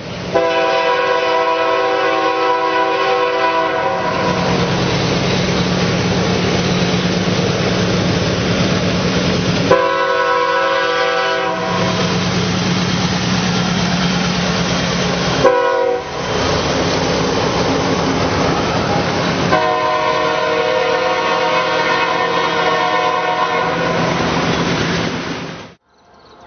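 Diesel freight locomotive's multi-note air horn sounding the grade-crossing signal: two long blasts, a short one, then a final long one, with the locomotive's engine and the rolling train running underneath between blasts. The sound cuts off suddenly near the end.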